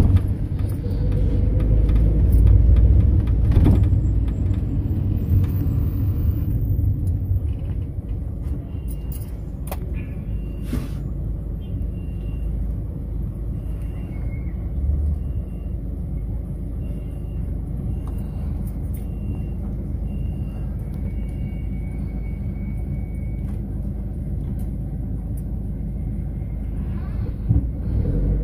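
Mercedes-Benz Sprinter minibus driving, heard from inside: a steady low engine and road rumble, heavier in the first few seconds. Through the middle, short high beeps repeat about once a second.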